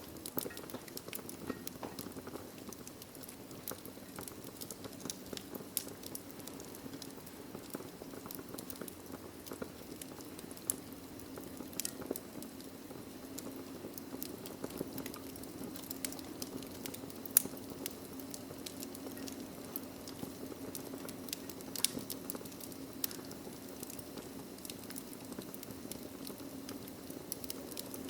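Wood fire of burning logs in a fireplace crackling: irregular sharp pops and snaps over a steady low rush of flame, with one louder pop a little past halfway.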